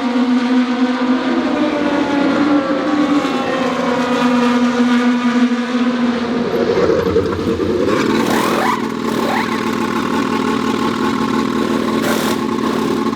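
IndyCar race cars' twin-turbo V6 engines running at speed on track, a steady high engine note that shifts about two-thirds of the way through, with a brief rise and fall in pitch as another car goes by.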